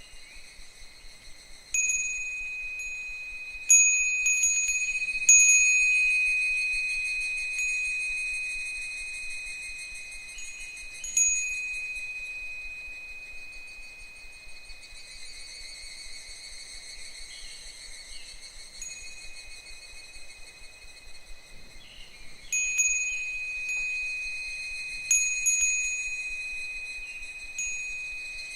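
Japanese wind chime (fūrin) ringing as the wind swings its clapper. There is a cluster of clear high strikes in the first few seconds and another near the end, each note fading slowly, with a quieter lull in the middle.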